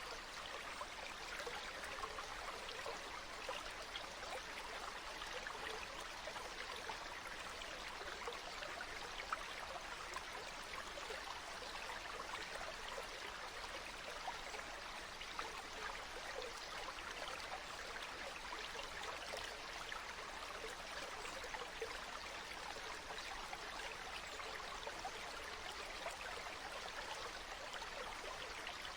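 Stream water flowing and trickling steadily over rocks, an even rushing babble.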